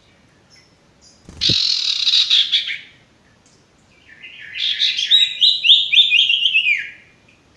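Sirtu bird calling: a harsh, dense chatter lasting about a second and a half, then after a short pause a fast run of stepped notes that drops in pitch and ends on a downward slur. A short low thump comes at the start of the first phrase.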